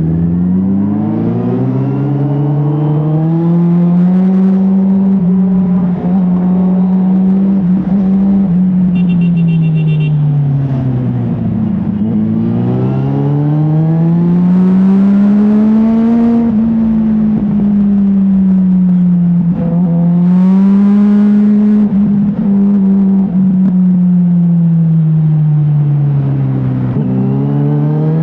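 Motorcycle engine under way. Its note climbs as it accelerates, holds, then eases off and picks up again several times over. A brief high-pitched beep sounds about nine seconds in.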